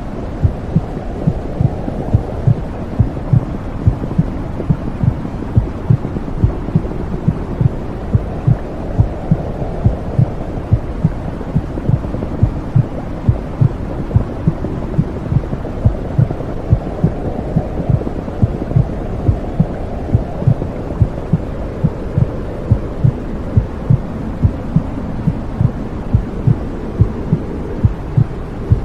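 Womb sound for soothing a baby: steady low heartbeat thumps, a little over one a second, over a low rushing whoosh that slowly swells and fades.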